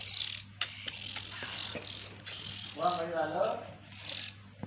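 Oriental magpie-robin (kacer) chicks chirping over and over in short, high, harsh bursts of about half a second each, the begging calls of young birds waiting to be fed.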